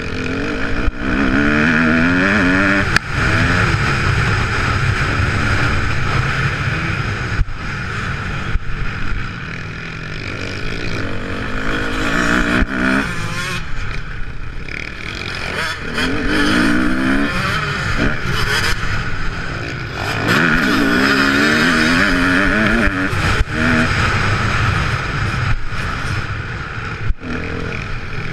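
Kawasaki KX250F single-cylinder four-stroke motocross engine revving hard, its pitch climbing several times as it accelerates and dropping back in between. A few sharp knocks are heard along the way.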